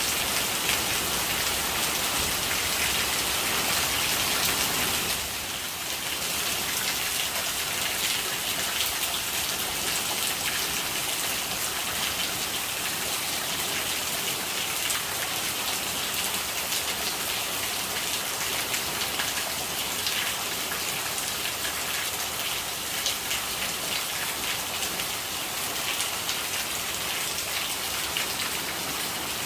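Steady rain falling, a dense patter of drops that dips slightly in level about five seconds in.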